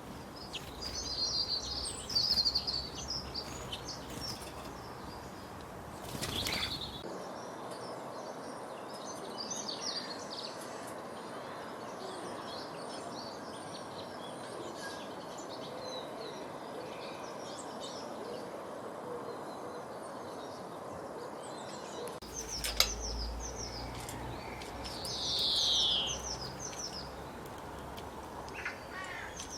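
Small birds chirping and twittering over a steady background hiss, with one longer call sliding downward in pitch about 25 seconds in.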